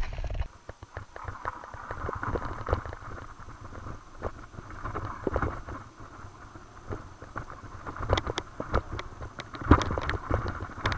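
Mountain bike riding down a dirt trail: tyres running over loose ground and the bike rattling over bumps, with wind rumbling on the microphone. Sharper knocks come about eight and ten seconds in as it hits rougher ground.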